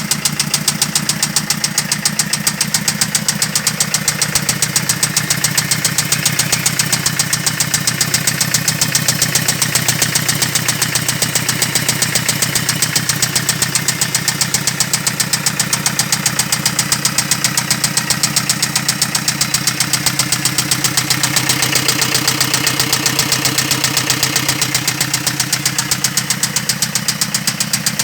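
Hyundai Starex's D4BH 2.5-litre four-cylinder turbodiesel idling steadily with a rapid, even knock running through it.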